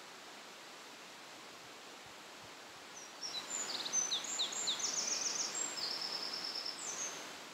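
A songbird sings a quick series of high chirps and trills for about four seconds, starting about three seconds in, over a steady outdoor hiss.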